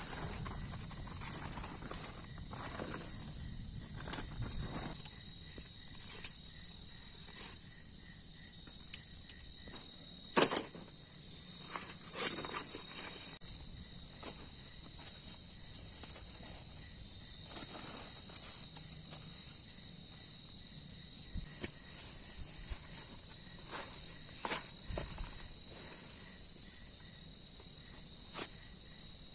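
Night insects chirping in a steady, high-pitched chorus, with scattered clicks and knocks of camp gear being handled; the loudest knock comes about ten seconds in.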